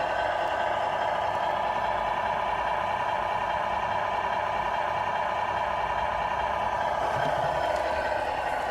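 Radio-controlled Scania R470 model truck running: a steady, even drone with no pauses.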